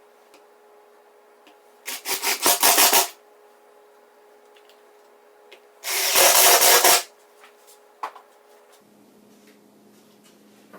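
Two screws driven into plywood with a power drill-driver, each a noisy burst of about a second; the first comes in several quick pulses, the second runs in one go about four seconds later.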